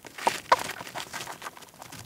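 Hamster scrabbling in dry wood-shaving bedding while tugging at a carrot: a run of small crinkles and clicks, with two sharper ones about a quarter and half a second in.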